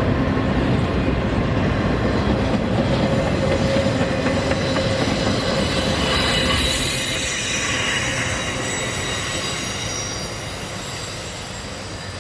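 Freight train cars rolling past on the rails with a steady rumble. Thin, high wheel squeal sets in about halfway through as the sound fades away.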